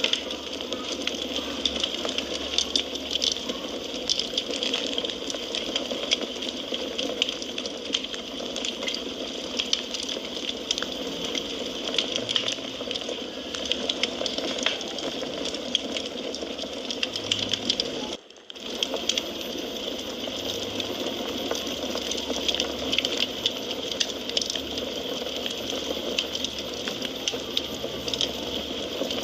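Wood fire crackling in a fireplace: a steady hiss with many small irregular pops and snaps. The sound cuts out for a split second about two-thirds of the way through.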